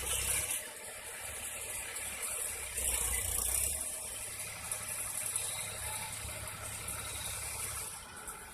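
Indo Farm 2042 tractor running with its disc plough, a low engine rumble under a mechanical rattle and a steady hiss.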